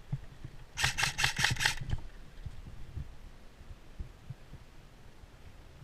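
A short burst of rapid airsoft gunfire from an electric airsoft gun (AEG), about six or seven sharp cracks in a second, about a second in. Low thumps of movement and handling follow.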